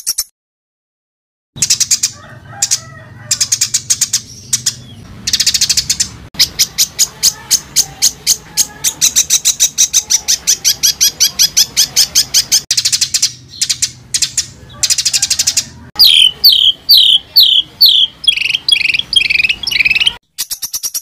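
Recorded songbird song: long runs of very fast, repeated high notes, then, about three-quarters of the way through, a string of loud whistles that each slide downward. This is the dense, harsh 'tembakan' style of song used as masteran to tutor competition songbirds.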